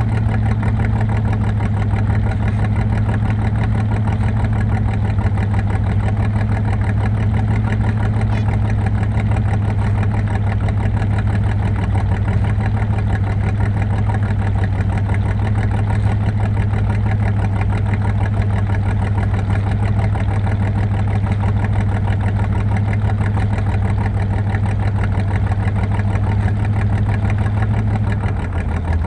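Car engine running steadily at an even speed, its note dropping lower near the end.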